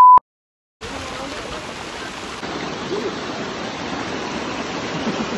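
A loud steady beep cuts off right at the start, followed by a moment of dead silence. Then the steady rush of a waterfall pouring into a rocky stream.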